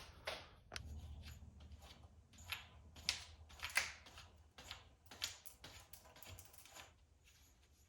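Faint, irregular clicks and scrapes of hand work on the engine, as tools and metal parts are handled.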